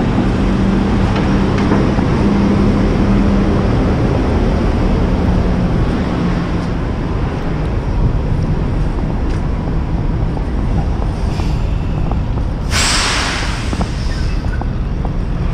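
Flatbed tow truck's engine running steadily, with a sharp hiss of air lasting about a second near the end.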